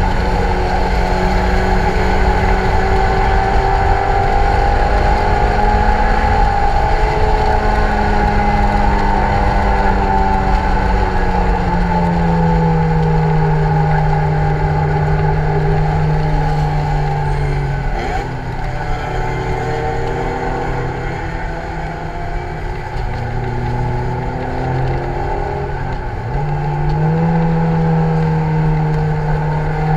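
Lotus Elise 111R's Toyota 1.8-litre four-cylinder (2ZZ-GE) engine working hard at speed, heard from the open cockpit with wind rush. The engine note holds steady, drops in pitch a little past ten seconds, falls away and quietens for a while about halfway through, then climbs sharply again near the end.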